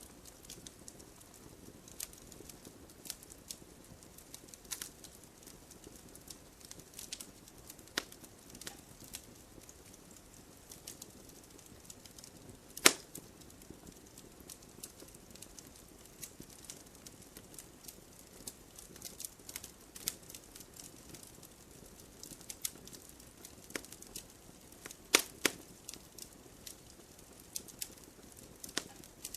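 Wood fire burning in a fireplace: logs crackling with irregular sharp pops over a soft steady rush, one loud pop about halfway through and a few more near the end.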